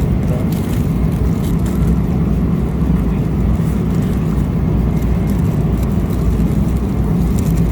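Steady low rumble of a Boeing 777-300ER's passenger cabin: engine and air-conditioning noise, with a few faint clicks.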